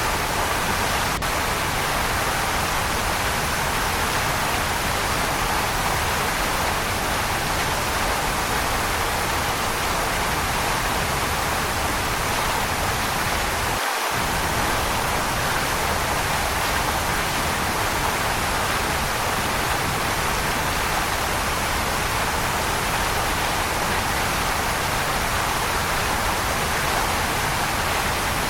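Waterfall, a steady, even rush of falling water. The deep low rumble cuts out for a moment about halfway through.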